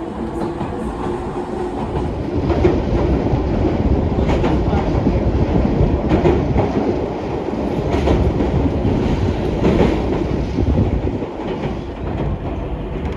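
Train running along the rail, heard from inside the carriage: a steady rumble of wheels on track with a sharp clack from the rail joints about every two seconds.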